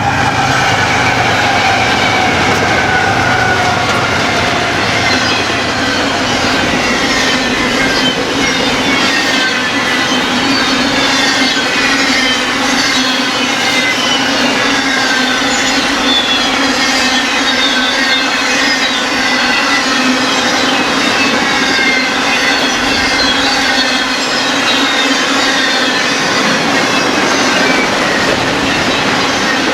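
Freight train cars rolling past with steel wheels squealing on the rails: many high squeals that glide down in pitch, one after another, over a steady low hum.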